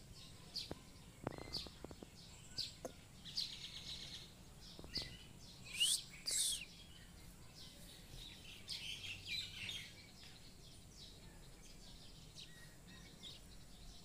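Birds chirping: a scatter of short high chirps, with two loud shrill calls close together about six seconds in. The chirping stops after about ten seconds, leaving only a low background hum.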